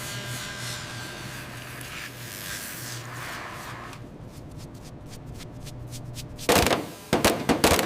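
Workshop tool noise: a steady power-tool whir that stops about halfway through, then a quick run of loud hammer blows on metal near the end.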